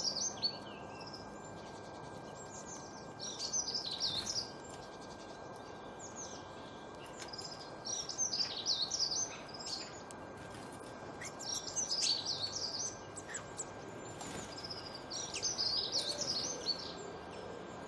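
A songbird singing: short, high warbled phrases that recur about every four seconds, over a steady background hiss.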